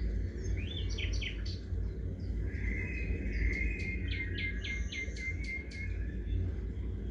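Small songbirds calling over a steady low background rumble: a few quick chirps in the first second or so, then a rapid run of about six short, evenly spaced notes a few seconds in.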